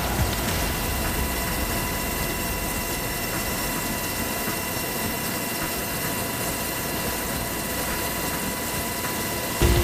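Steady aircraft engine noise: an even rush with a constant whine, typical of a running turbine engine.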